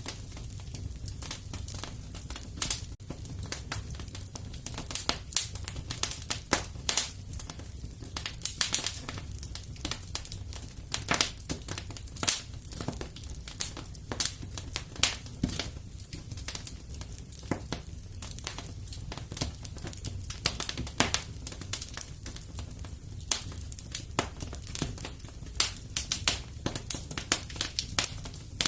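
Wood fire crackling in a fireplace: irregular sharp pops and snaps, many a second, over a low steady rumble of the flames.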